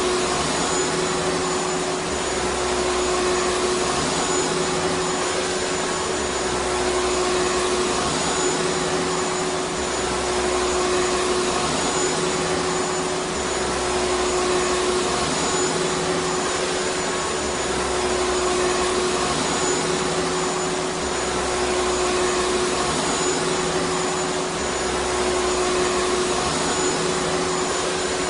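Vacuum cleaner motor running steadily: a dense rushing hiss of air with a steady mid-pitched whine, swelling slightly about every four seconds.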